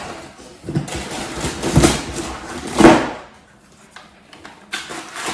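Packaging being handled: several rustles and scrapes of cardboard and plastic as vacuum parts are lifted out of their box compartments, the loudest about two and three seconds in, with a few softer ones near the end.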